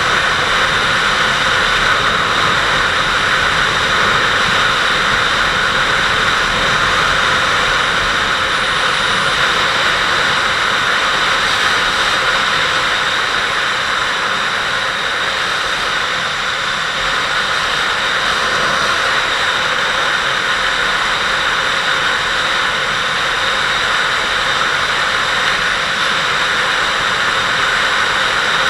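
Kawasaki Vulcan 800 motorcycle under way: a steady, loud rush of wind and engine noise at an even speed.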